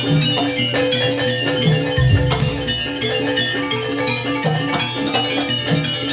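Jaranan gamelan music: struck metallophones ringing in a repeating pattern over drum beats.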